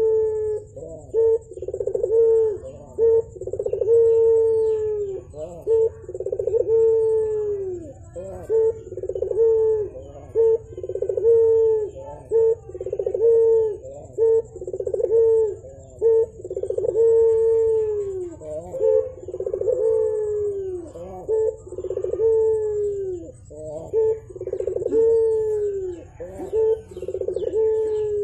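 Puter dove (domesticated Barbary dove) cooing over and over in repeated low phrases, each ending in a falling glide, about one phrase every second or two. A faint steady high whine runs beneath.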